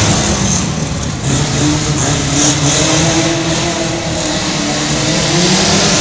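Race vehicles' engines, a Jeep Cherokee and a Subaru, running hard under acceleration. One engine note climbs slowly in pitch through the middle.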